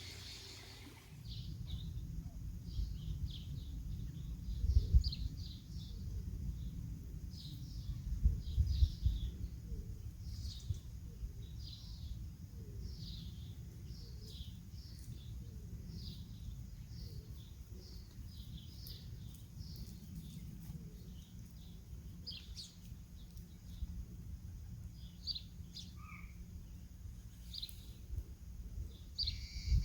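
Birds chirping with many short, high calls throughout, over a low rumble of wind on the microphone that gusts loudly about five and nine seconds in.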